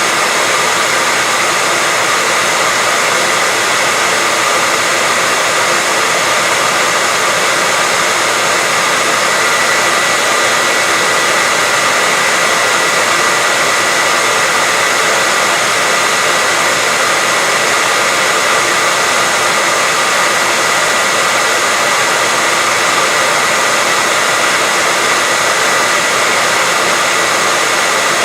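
Continuous white-noise hiss, perfectly steady and unchanging, weighted toward the upper range with little bass, with a faint steady whine running through it.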